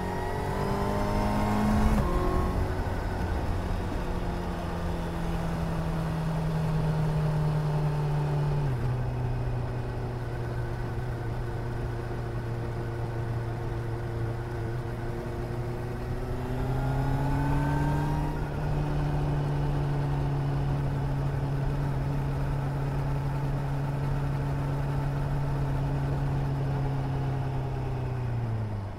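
Suzuki GSR 750's inline-four engine under way: it revs up over the first two seconds and then runs at a steady pitch. The pitch drops abruptly at about nine seconds, climbs again around seventeen seconds, and falls away sharply near the end.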